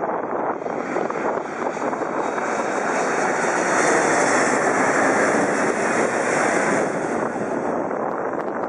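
Jet airliner passing overhead, its engine noise swelling to a peak about halfway through and then fading.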